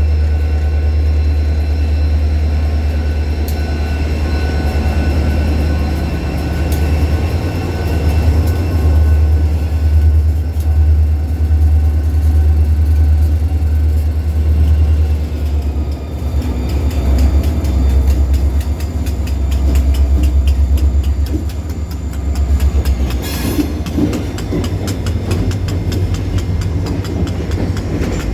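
A diesel locomotive hauling a short ballast train, its engine a loud, steady low drone. From about halfway through, a quick run of clicks from wheels crossing rail joints joins in as the cars roll by.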